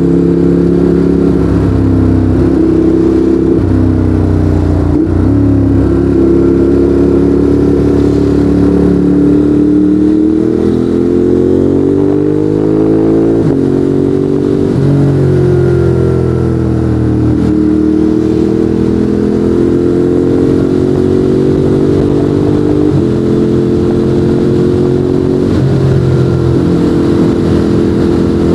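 Ducati Monster 821's 821 cc L-twin running through a Termignoni exhaust under way, its pitch climbing and dropping as the rider works the throttle. There are sudden drops at gear changes about 2, 5, 13, 23 and 26 seconds in.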